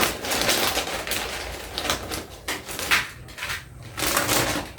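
Dense, crackly crunching close to the microphone from snacks being eaten, in irregular clusters of sharp clicks.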